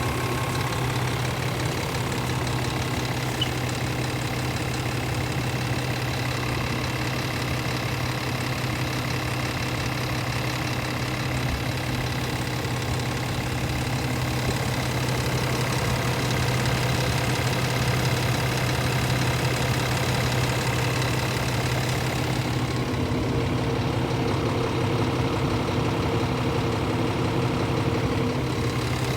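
Scania S500 truck's 13-litre inline-six diesel idling steadily, a low even drone. About three-quarters of the way through, the high hiss drops away and a lower mid-range hum comes forward.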